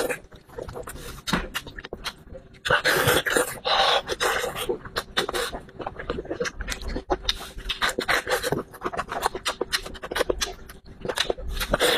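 Close-miked eating of braised sheep head meat: chewing, wet mouth clicks and lip-smacking, with a couple of louder breathy bursts about three seconds in.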